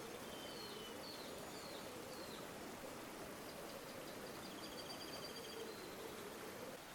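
A river flowing steadily, a faint even rush of water. Faint high bird calls sound over it: a few short sliding notes in the first couple of seconds, then a quick trill a little past the middle.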